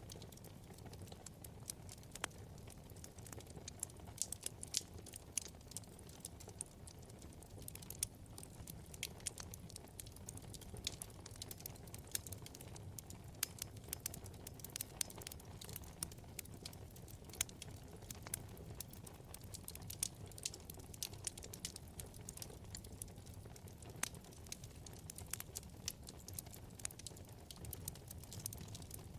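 Wood fire burning in a fireplace: a soft low rumble of flames with frequent irregular sharp crackles and pops from the burning logs.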